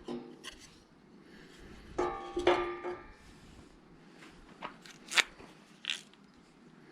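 Aluminium cooking pot or lid clanking and ringing, briefly at the start and louder about two seconds in, followed by three sharp clicks a little later.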